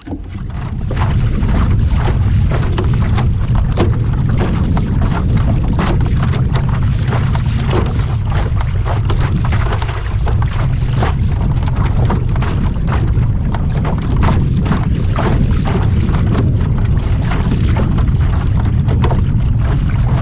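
Wind buffeting the microphone as a steady low rumble, with many small ticks and splashes of water against a kayak running through it. The rumble comes up about a second in and then holds.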